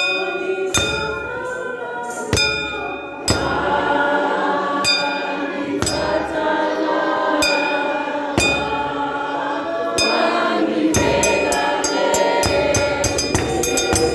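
Gospel music: a choir singing in harmony over a beat of drums and cymbals, the percussion getting busier about eleven seconds in.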